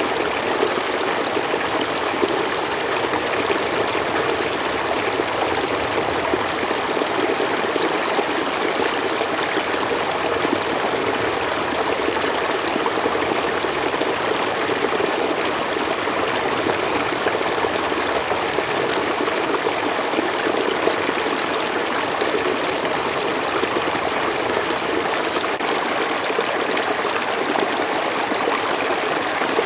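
A river or stream flowing steadily, its water rushing and babbling without a break.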